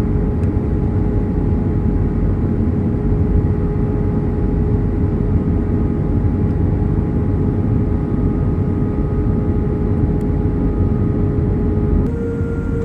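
Steady pink-style background noise, a dense even rush heaviest in the low end, with a steady hum tone over it that shifts slightly higher near the end.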